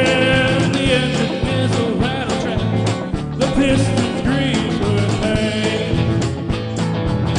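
A band playing a song with a steady drum beat.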